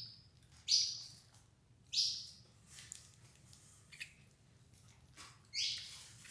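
Domestic Belgian canaries giving four short, loud chirping calls, spaced unevenly over several seconds, with faint ticks in between.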